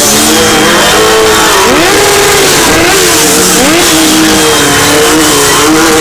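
Motorcycle engines running loud and being revved, their pitch swooping up and down several times, with rising and falling tones overlapping.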